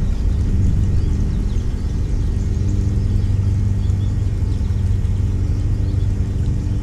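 A steady low mechanical rumble with a constant hum, like a motor running, with small birds chirping faintly above it.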